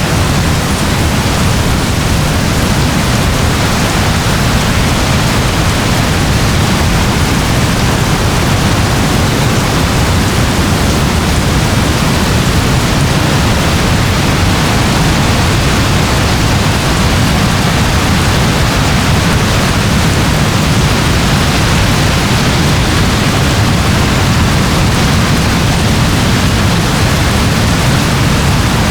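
Steady soft rain: an even hiss with no distinct drops standing out and no change in level.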